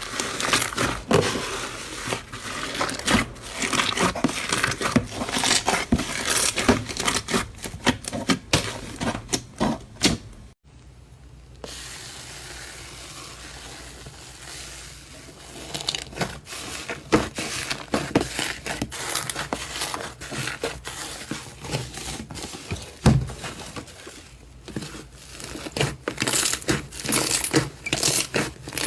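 Slime being squeezed, pressed and stretched by hand, giving dense runs of small crackling pops and clicks. About ten seconds in the sound cuts out briefly, then comes back quieter for a few seconds before the crackling picks up again.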